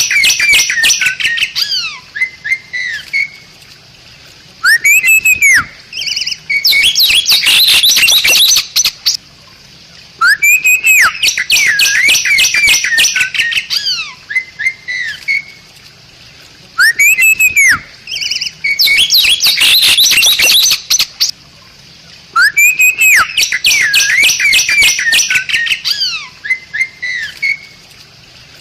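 Bali myna singing in repeated phrases: loud arched whistles followed by a stretch of rapid, harsh chattering notes, the phrase coming back about every five to six seconds with short pauses between.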